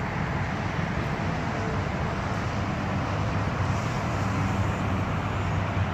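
Steady low engine hum and traffic noise with an even hiss over it, and no distinct events.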